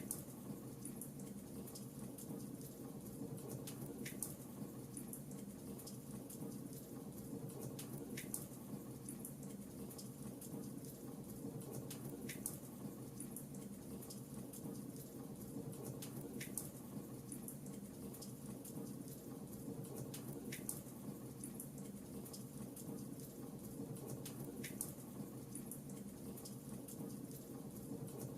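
Fireplace fire crackling: a low steady rush with many small ticks and a sharper pop about every four seconds.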